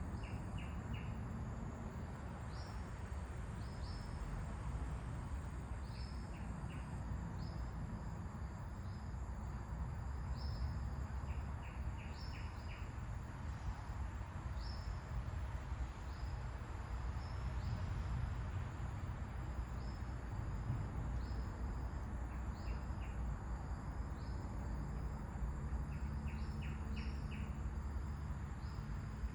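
Steady wind rumble with birds calling over it: short high chirps every second or two, and now and then a quick run of three to five clicking notes.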